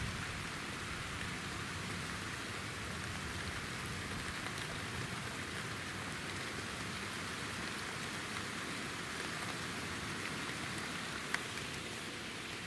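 Steady rain falling during a night thunderstorm, with one sharp tick about eleven seconds in.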